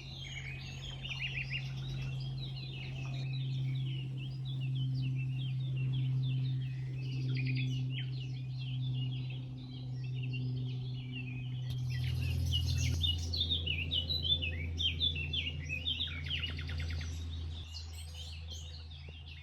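Many small songbirds singing and chirping at once, a dense run of short high chirps and trills. Under them runs a low steady hum that drops to a lower pitch about two-thirds of the way through.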